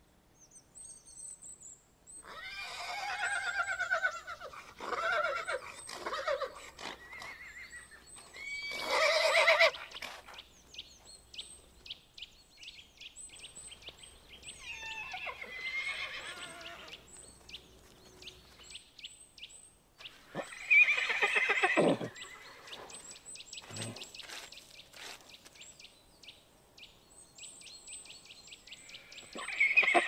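Horses neighing: about half a dozen whinnies a few seconds apart, several of them loud, with faint rapid high chirping in the background.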